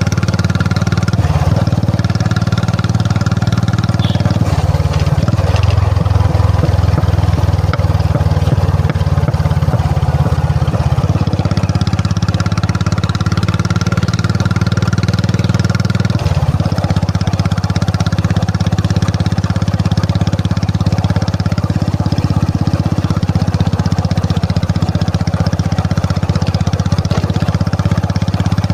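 Royal Enfield Classic 350's single-cylinder engine running, its exhaust note shifting in pitch and texture a few times.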